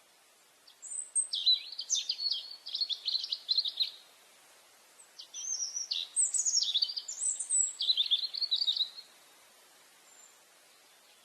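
Songbird singing two quick, twittering phrases of rapid high chirps, each about three seconds long, with a short pause between.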